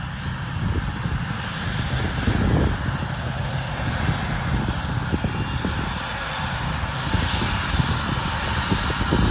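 Airliner engine noise: a steady roar with a strong low rumble that grows a little louder near the end.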